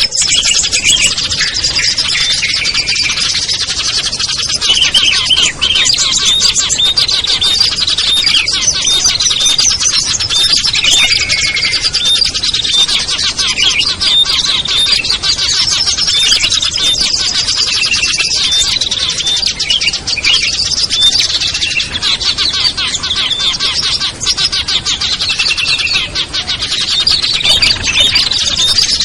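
Dense, continuous chorus of many small songbirds chirping and calling over one another: rapid high trills and short slurred notes, layered into a bird-lure mix made to draw wild small birds down.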